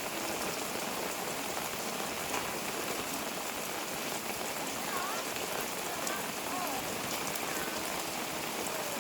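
Steady rain pouring down on surfaces.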